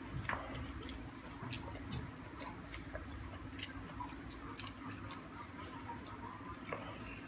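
Eating sounds: irregular soft clicks and lip smacks of someone chewing a mouthful of salad eaten by hand, over a low steady hum.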